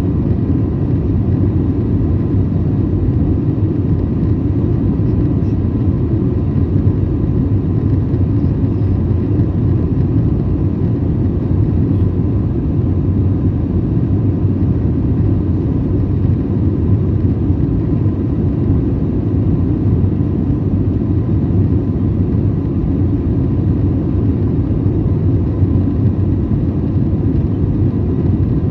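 Steady low roar inside the cabin of an Airbus airliner in flight: jet engines and rushing air, unchanging throughout, with a faint steady hum from the cabin systems.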